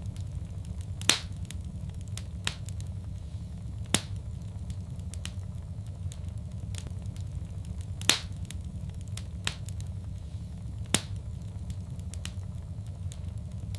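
Wood fire in a fireplace crackling, with sharp pops about every few seconds, the loudest about 1, 4, 8 and 11 seconds in, over a steady low rumble of the flames.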